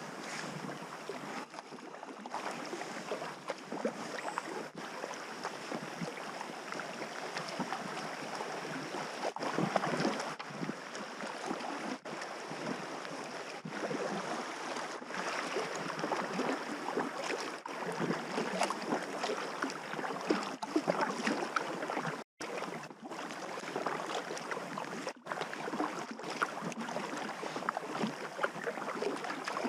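River water splashing and rushing around a packraft floating downstream, with many irregular small splashes.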